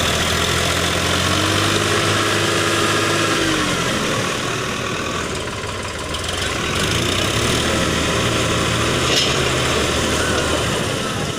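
Preet tractor's diesel engine running steadily, easing slightly about five seconds in and picking up again.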